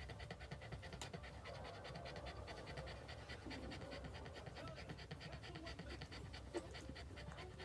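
A dog panting quickly and steadily, faint, with a few small squeaks in between.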